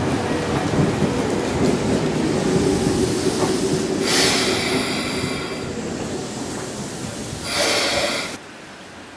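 Izukyū 8000-series electric train rolling slowly into the platform and braking to a stop, a steady rumble of wheels and running gear with a low hum in the first few seconds. Two loud bursts of hiss come about four seconds in and near the end, after which the sound cuts off suddenly.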